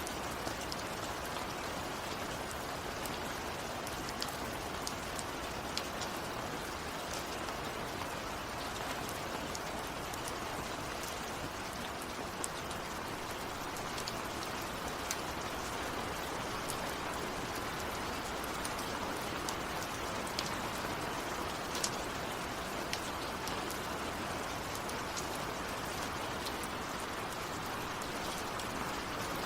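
Steady rain falling: a continuous hiss with scattered sharp drop ticks throughout.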